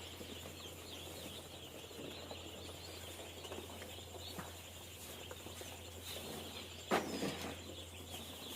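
Dense chorus of high peeping from many day-old broiler chicks. A single knock sounds about seven seconds in.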